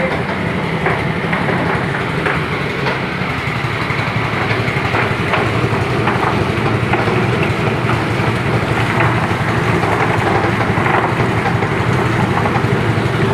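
Chicken feather-plucking machine running steadily, its motor hum overlaid with irregular knocks and rattles.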